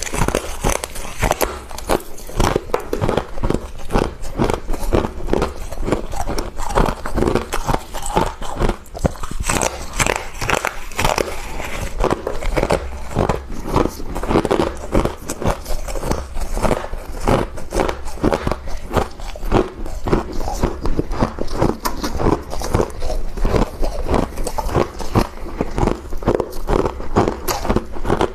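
Close-up biting and chewing of freezer frost: rapid, continuous crunching, several crunches a second.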